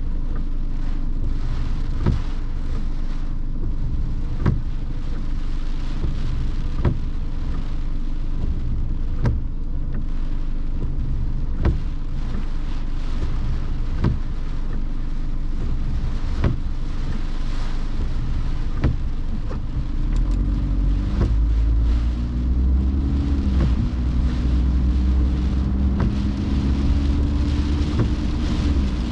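Car driving in rain: steady rain and road noise over a low rumble, with a sharp tick about every two and a half seconds. From about twenty seconds in the rumble grows louder and an engine note rises and falls.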